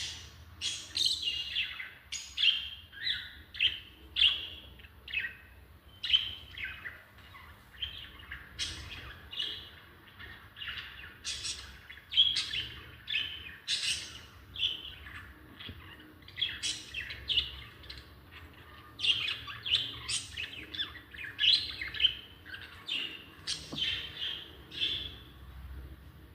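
Lovebirds chirping: quick, shrill, short calls, several a second, overlapping and coming in bursts.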